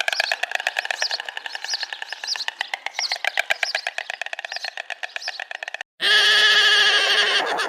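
A bird chattering in a fast clicking trill, with short rising chirps about twice a second. About six seconds in it breaks off, and a loud, slightly wavering bleat from a farm animal follows.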